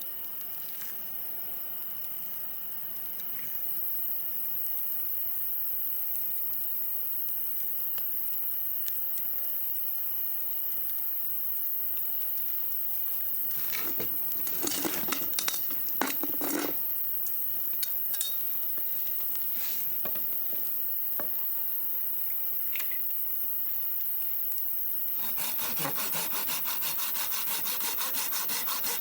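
Wood being cut with a saw. A few knocks and clatters come around the middle, then about 25 seconds in a fast, even run of saw strokes begins, over a steady background hiss.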